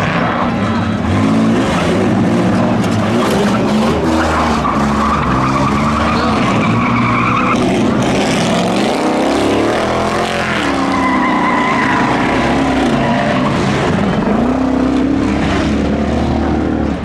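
Several race cars' and trucks' engines running together and revving up and down, with tires squealing about four seconds in and again past the middle.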